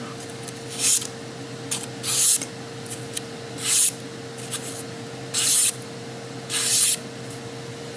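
A knife blade making five short hissing scrapes, roughly one every second and a half, over a faint steady hum.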